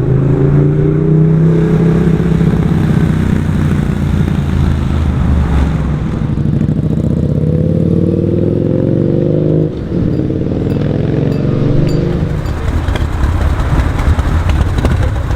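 Motorcycle engine running loud, its pitch climbing steadily as it revs or accelerates for a few seconds. It breaks off abruptly about two-thirds of the way through into a rougher engine sound.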